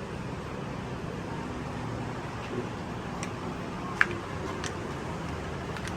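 Street ambience: a steady hum of traffic, with one sharp click about four seconds in.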